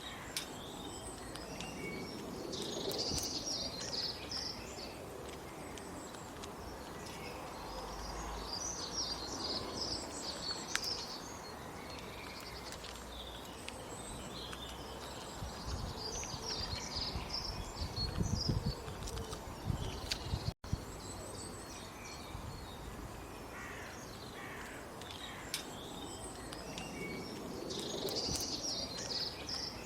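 Small birds chirping in bursts of rapid high notes that come and go every several seconds, over a steady outdoor hiss. A stretch of low rumbling noise comes a little past the middle, and the sound cuts out for an instant about two-thirds of the way through.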